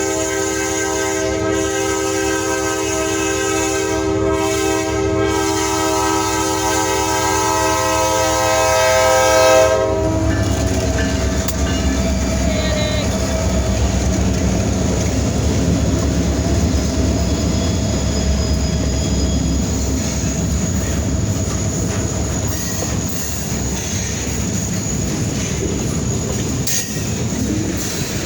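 EMD SD40-2 diesel locomotive's multi-chime air horn sounding one long chord for about ten seconds, then cutting off, leaving the steady rumble and wheel clatter of the train rolling past.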